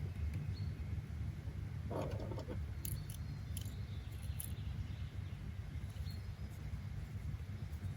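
Steady low background rumble with a few short, high chirps and clicks scattered through it, and a brief rustle about two seconds in.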